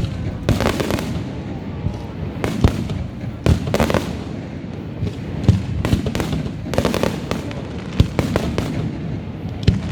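Fireworks going off in quick succession: repeated sharp bangs and booms, with bursts of crackling around half a second, three and a half seconds and seven seconds in.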